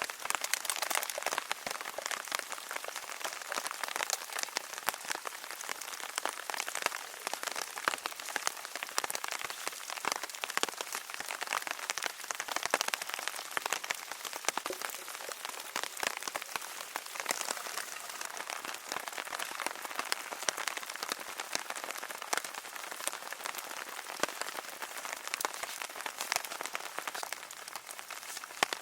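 Steady rain falling, with many separate drops striking close by as a dense stream of small ticks over an even hiss.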